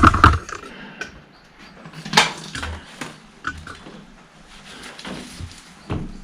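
Metal tractor parts and hand tools being handled, with a sharp metallic clank about two seconds in and a few lighter knocks and clinks after it.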